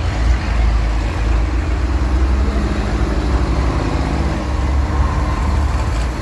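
Tractor engines running steadily at low revs, a deep continuous rumble, with one engine note standing out clearer in the middle.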